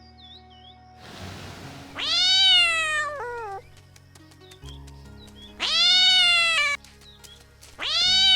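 Kitten meowing three times, each meow about a second long and falling in pitch at the end. The first is followed by a short second mew, and the third starts near the end. A soft musical backing plays underneath.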